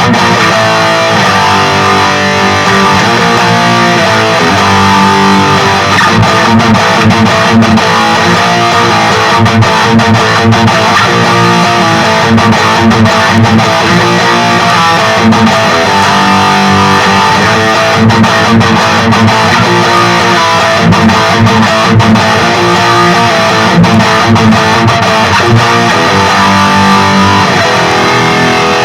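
Heavily distorted electric guitar with active pickups playing riffs through a Peavey Vypyr 15-watt modelling amp on its XXX high-gain setting.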